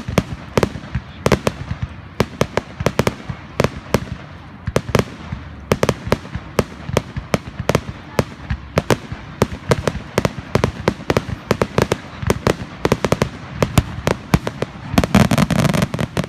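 Fireworks display: a rapid, irregular barrage of sharp bangs from aerial shells bursting, several a second, over a low rumble. About fifteen seconds in comes a dense stretch of crackling.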